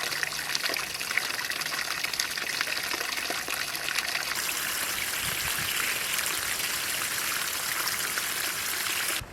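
Water running steadily with a hissing splash, cutting off suddenly near the end.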